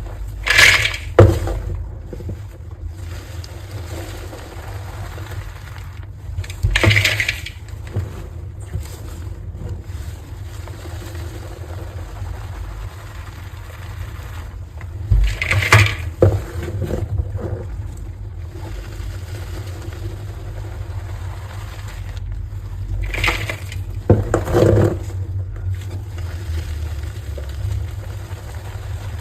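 Heart-shaped blocks of coloured gym chalk crunching and crumbling as they are broken, in four short bouts several seconds apart, over a steady low hum.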